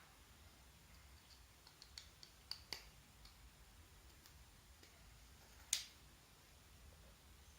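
Near silence: quiet room tone with a few faint scattered clicks, and one sharper click a little past halfway.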